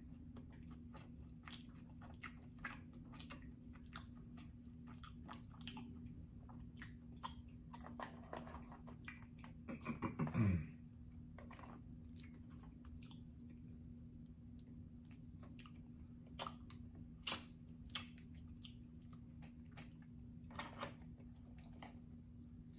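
Close-miked mouth sounds of a person chewing sushi: soft wet smacks and small clicks. About ten seconds in comes a short hummed sound that falls in pitch, and a few sharp clicks come between about 16 and 18 seconds. A faint steady hum lies underneath.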